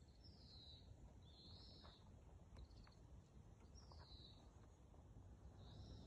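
Faint bird calls: about four high, slurred notes a second or two apart, with a brief quick run of notes near the middle, over a faint low rumble.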